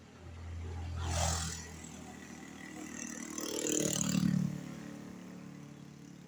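Two motor vehicles passing along the road one after the other, each rising and fading, the second louder, about four seconds in.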